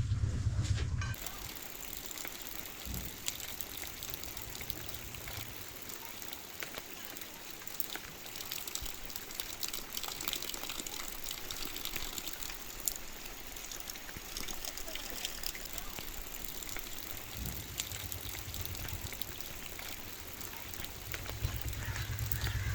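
Heavy rain falling: a steady hiss of water with many small pattering drops and splashes. A low rumble stops about a second in and comes back near the end.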